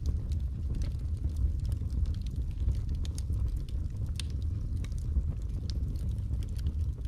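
Wood fire burning in a fireplace: a steady low rumble of the flames with scattered crackles and a few sharper pops from the burning logs.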